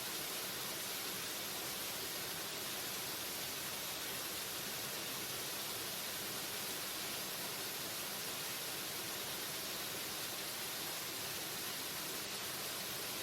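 Waterfall rushing: a steady, even hiss with no breaks or changes in level.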